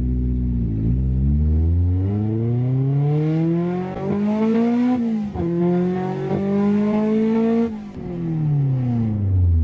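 Honda B16 1.6-litre DOHC VTEC four-cylinder of a 1999 Civic SiR accelerating, heard from inside the cabin: the engine note climbs through one gear, drops at a gear change about five seconds in, climbs again through the next gear, then falls away as the throttle is lifted near the end.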